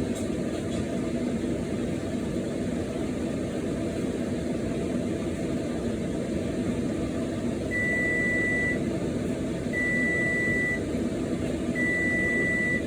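A kitchen appliance's timer beeping three times, long even beeps about two seconds apart, over a steady low background noise.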